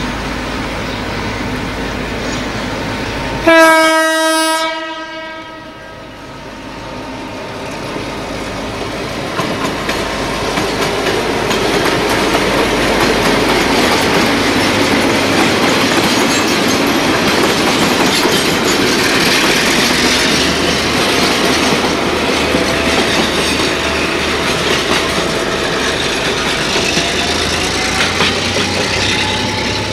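A train horn sounds one short, loud note about three and a half seconds in. After it, the noise of a diesel-hauled train running on the rails builds up over several seconds and then carries on steadily.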